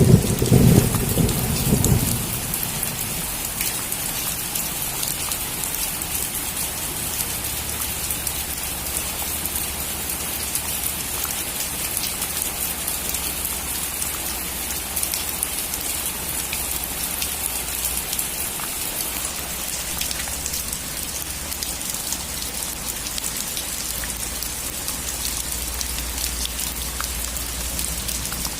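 Steady rain falling on a roof, with many small drop ticks. A loud rumble of thunder fades out in the first two seconds.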